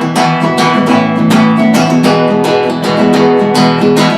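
Acoustic guitar strummed in a steady rhythm, an instrumental passage between sung verses of the song.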